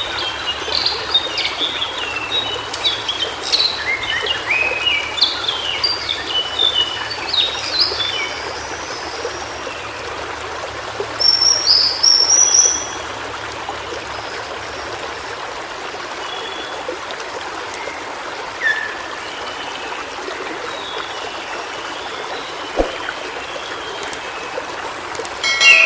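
White-browed shortwing singing a fast, jumbled warble of short high notes for about the first third, then a brief higher rising phrase about halfway. Under it runs the steady rush of a stream.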